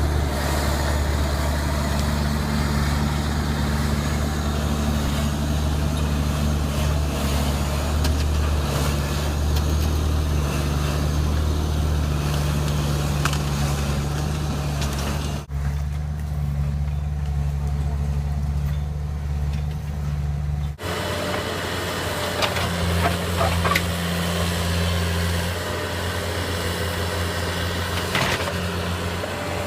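Diesel engine of heavy tracked equipment running steadily, with a few knocks and clanks; the engine note changes abruptly twice.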